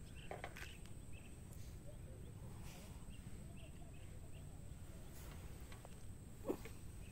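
Faint outdoor ambience: a steady low rumble with a few faint scattered chirps, and one brief sharp squeak-like sound about six and a half seconds in.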